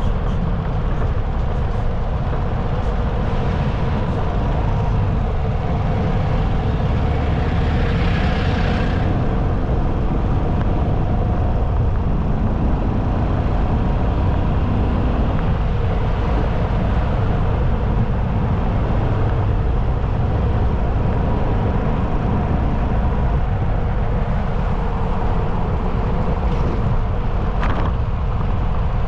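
Motorcycle running at steady road speed, a constant engine tone under loud low wind rumble on the microphone, with a brief hissing swell about eight seconds in.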